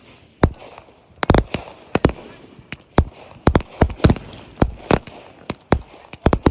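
Fireworks going off in quick succession: a rapid, irregular string of sharp bangs, about two or three a second, with crackle between them.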